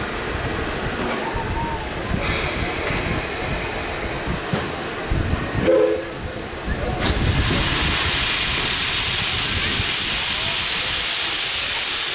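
Steam locomotive with a low rumble and a short pitched note about six seconds in, then a loud, steady hiss of steam venting from about seven seconds in.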